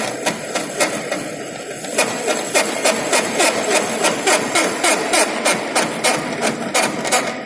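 Centre lathe running through the end of a straight-turning finishing cut, the tool taking a 0.25 mm depth of cut on the workpiece. A steady mechanical rattle with sharp regular clicks about three to four a second, getting busier and louder about two seconds in.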